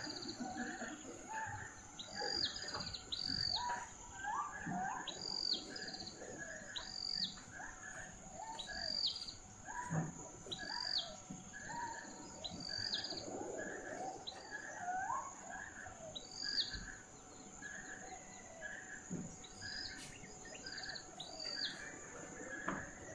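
Birds chirping: short, high calls repeat about once a second over a steady high whine and a lower, regular pulsing chorus about twice a second, like a forest ambience.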